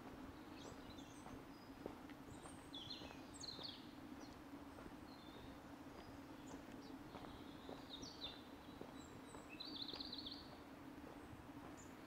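Small birds chirping and twittering, with many short high calls scattered throughout and a louder burst of twittering about ten seconds in, over a faint steady low hum.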